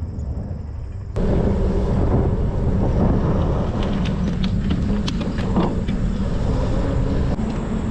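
Wind buffeting the microphone and road noise while cycling, starting abruptly about a second in and running as a dense, low rush with a steady hum under it.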